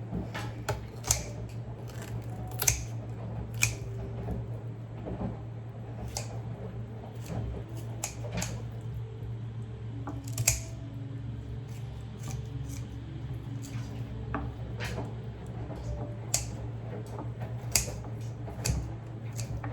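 Kitchen scissors snipping through raw chicken meat and joints, in irregular sharp snips with a few louder ones, over a steady low hum.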